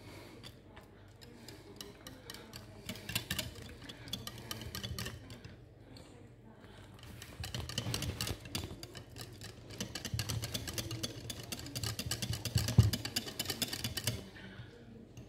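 A utensil stirring cheese into thick white sauce in a bowl: a long run of quick clicks and scrapes against the bowl, busier in the second half, with one louder knock near the end.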